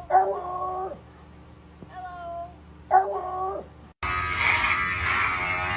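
A cat meowing three times, short falling calls. About four seconds in, a loud harsh buzzing sound starts abruptly.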